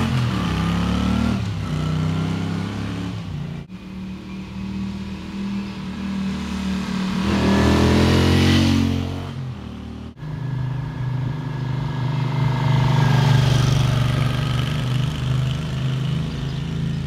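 Honda CX motorcycle's V-twin engine through its exhaust, in several short takes: the revs drop in the first second, the engine blips up and back down near the middle, and after an abrupt change it runs hard and steady to the end.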